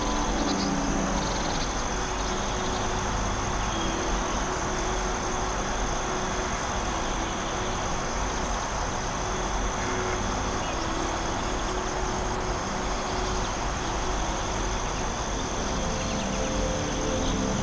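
Steady forest ambience: an unbroken rushing noise with a continuous high-pitched drone of crickets or other insects over it.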